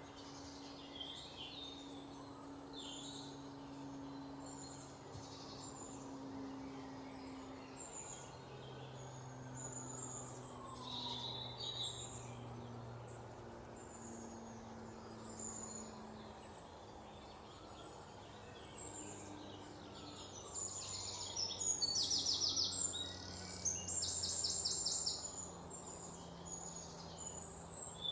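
Several songbirds chirping and calling, with two louder rapid trills about three quarters of the way through, over a faint low steady hum.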